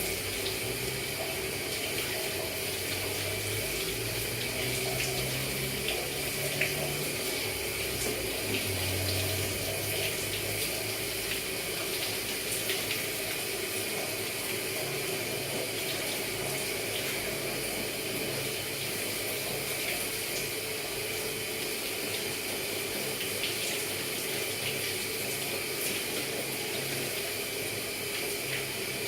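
Shower running: a steady spray of water with a few faint clicks and splashes.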